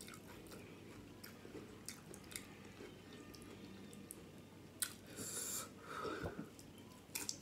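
Faint close-up eating sounds: wet chewing and mouth clicks from Flamin' Hot Doritos nachos loaded with salsa and toppings, along with fingers picking at the saucy food. A louder click comes about five seconds in, with a short hiss just after.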